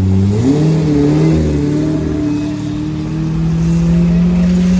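A car engine that steps up quickly in pitch about half a second in, then holds a steady higher note as it pulls, creeping slightly higher near the end.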